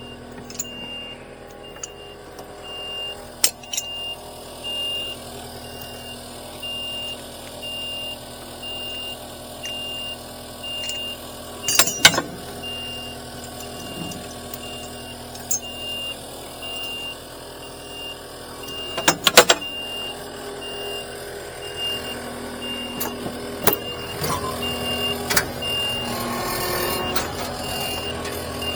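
A repeating electronic warning beep, one high tone pulsing in a steady rhythm, over a low steady hum, with a few sharp knocks, two of them louder.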